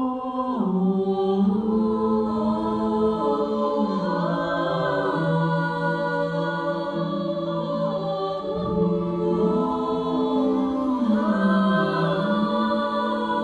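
A cappella vocal group singing wordless held harmony chords. The voices come in together at once, and the chord moves to new notes every few seconds.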